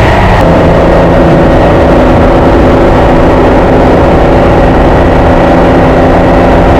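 1976 Nissan S30Z's modified L28 straight-six engine running under way. The revs drop right at the start, then hold steady.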